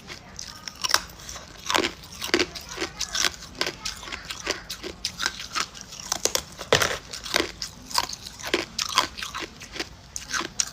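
Hard ice cubes being bitten and chewed: a steady run of sharp crunches, about two a second.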